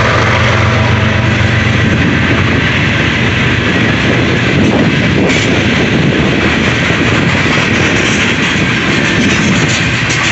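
Loaded coal cars of a freight train rolling past at close range, steel wheels running on the rails with occasional sharp clicks. The hum of the trailing GE ES44AC-H diesel locomotive fades out in the first second or two.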